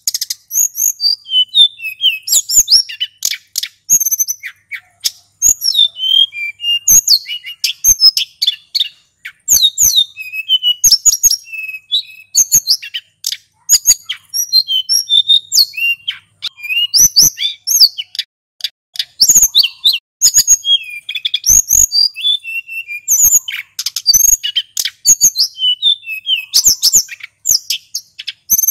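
Male sulingan gunung singing without pause: quick, high, thin whistled phrases and trills, one after another with only brief breaks.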